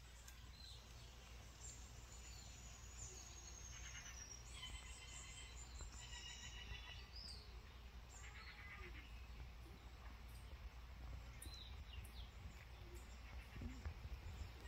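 Faint outdoor ambience: several birds chirping and trilling, with short rising and falling calls, over a steady low rumble.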